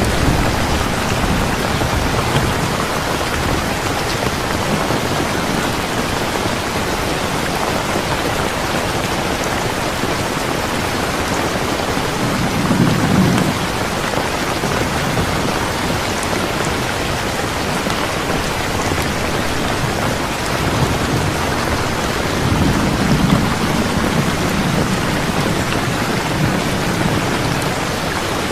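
Steady rain falling, an even hiss throughout, with a low rumble of thunder about halfway through and again a few seconds before the end.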